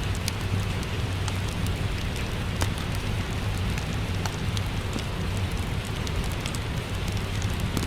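Steady rain with a deep low rumble, mixed with scattered sharp crackles and pops from a wood fire in a fireplace.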